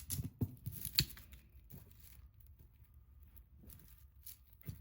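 Hands handling jewelry pieces and their packaging: a few sharp clicks and rustles in the first second, then quieter scattered handling with a couple more clicks near the end.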